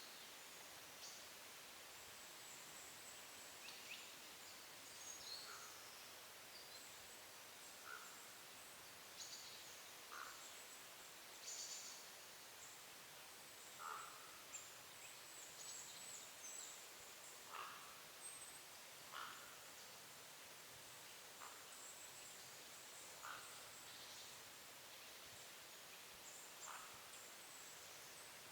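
Faint woodland birdsong: scattered high, thin calls and, every two seconds or so, a short lower call, over a steady background hiss.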